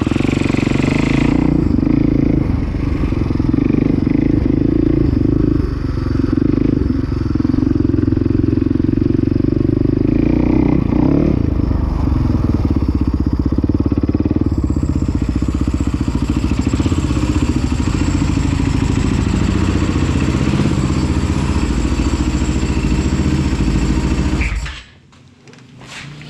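Dirt bike engine running loud and steady; it stops abruptly about 25 seconds in.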